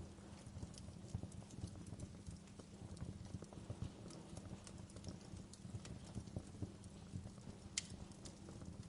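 Wood fire crackling: irregular sharp pops and snaps over a low, steady rumble of burning logs, with one louder pop near the end.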